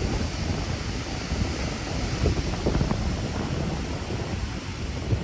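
Wind buffeting the microphone on an open beach, with ocean surf washing in the background.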